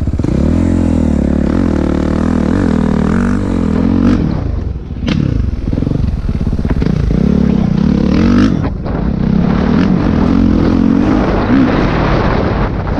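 Four-stroke dirt bike engine running under riding load, its pitch rising and falling with the throttle, easing off briefly about five seconds in and again near nine seconds.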